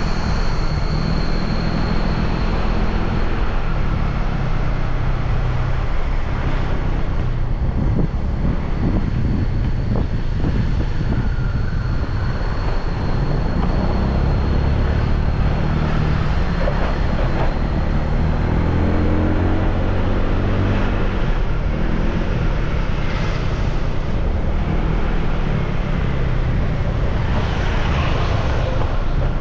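Motorbike engine running under way, with wind buffeting the microphone and road noise. The engine note climbs as the bike speeds up about two-thirds of the way through.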